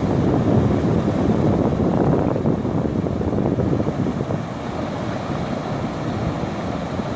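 Steady low rushing of rainwater flowing down a wadi, with wind buffeting the microphone.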